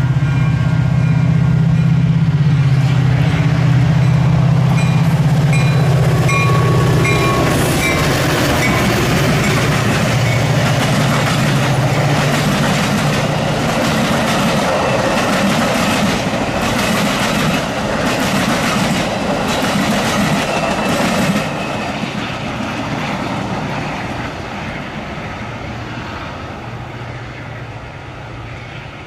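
Metra diesel-hauled commuter train going past. The locomotive's low steady engine drone comes first as it closes in, then the bilevel coaches clatter by with rhythmic wheel clicks over the rail joints. The sound drops sharply about three-quarters through as the end of the train passes, then fades as the train moves away.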